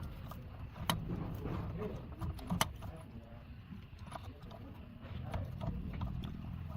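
Scattered light metallic clinks and taps over a low steady rumble, typical of hand tools and metal parts being handled during repair work.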